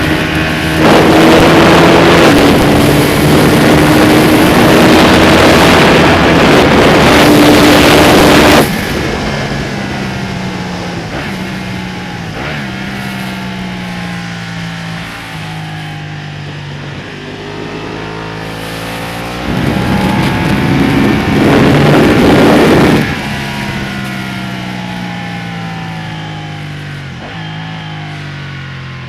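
Ducati Panigale sport bike's twin-cylinder engine at hard throttle with heavy wind rush. About nine seconds in the throttle shuts and the revs fall in stages as the bike slows. It opens up again for a few seconds near twenty seconds, then the revs wind down in stages once more.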